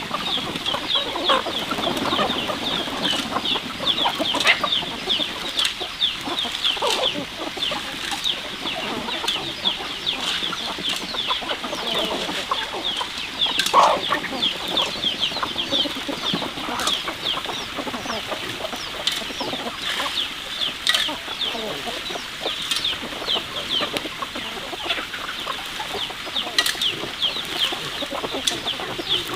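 A flock of chickens clucking continuously, over a dense, unbroken chorus of short high-pitched cheeps.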